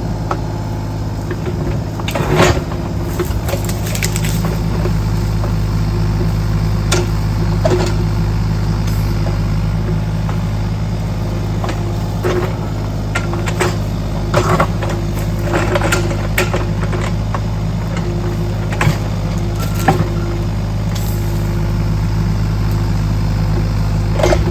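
Kubota U35-4 mini excavator's diesel engine running steadily, with irregular knocks and clanks over it, about a dozen scattered through.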